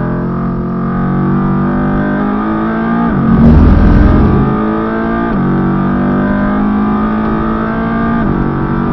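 Mercedes-AMG GT R's twin-turbo V8 under hard acceleration, heard from inside the cabin: the engine note climbs steadily, with three upshifts. About three seconds in a loud low rumble rises for about a second, the loudest moment.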